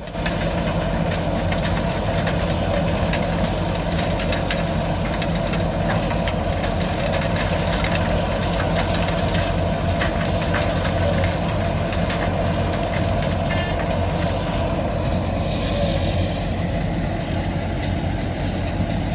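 Heavy road-construction machinery tearing up old asphalt: a steady diesel engine drone with scattered clattering and clicks.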